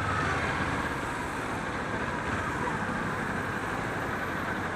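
Kawasaki Ninja 400 parallel-twin engine running steadily in city traffic, with road noise and surrounding traffic.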